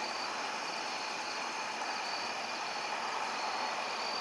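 Steady night-time outdoor hiss, with crickets chirping in short high-pitched trills on and off.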